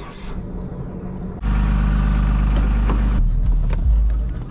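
Truck engine running, with a sudden much louder, noisier stretch about a second and a half in that lasts nearly two seconds before it settles back.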